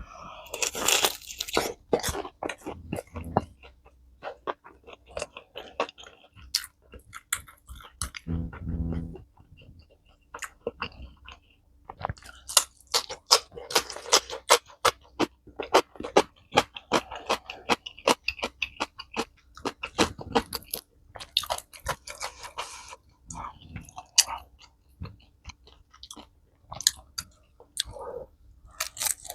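A person eating close to the microphone: crunching bites and chewing, with many short crisp clicks and crunches, and a brief low hum about eight seconds in.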